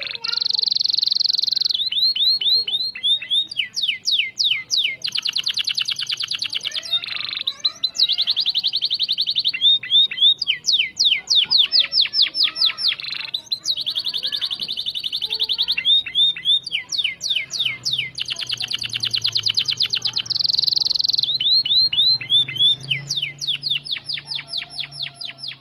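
Domestic canary singing continuously, a fast-trilling 'gacor' song. Long rapid buzzy rolls alternate with quick runs of downward-sweeping whistled notes.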